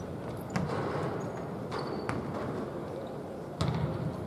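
A basketball bouncing on a court a few times, each bounce a sharp thud, over steady background noise.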